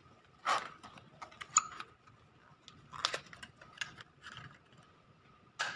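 Scattered clicks and light clinks of small metal parts and tools being handled, about half a dozen sharper ones spread irregularly, over a faint steady high hum.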